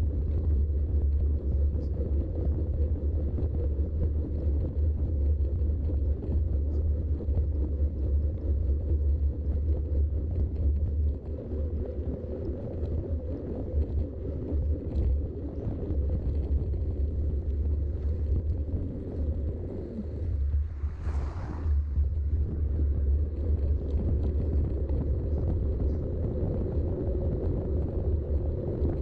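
Wind rumbling over a GoPro Hero6 Black's microphone while riding a mountain bike, a steady low rumble. A brief hiss swells and fades about 21 seconds in.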